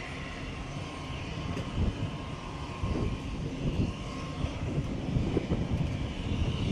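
A-10 Thunderbolt II's twin TF34 turbofan engines running with a steady whine and hiss, with wind buffeting the microphone in uneven low gusts that grow stronger after about two seconds.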